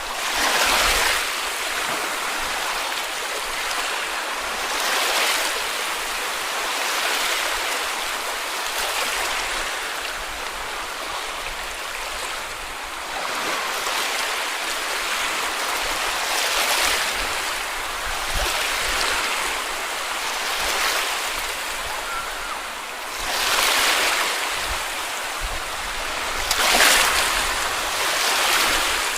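Small sea waves breaking and washing up the beach in slow surges every few seconds, over a steady hiss of surf.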